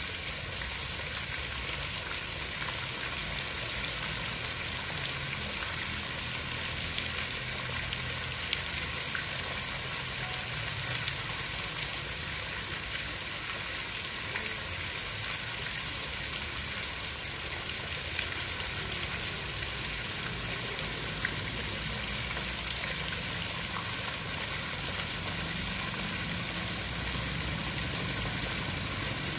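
Steady hiss of water, dense and even, with a few faint ticks and a soft low rumble beneath.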